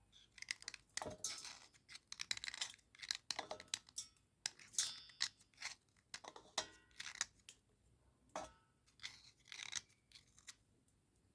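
Cubical slate pencil scraping and scratching dry against a slate in short, irregular strokes with brief pauses between them. The sound is faint and gritty.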